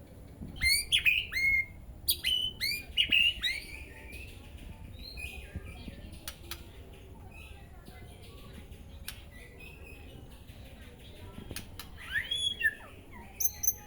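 White-rumped shama (murai batu) calling: quick runs of sharp, falling whistled notes and chirps in the first few seconds and again near the end, with scattered sharp ticks in between.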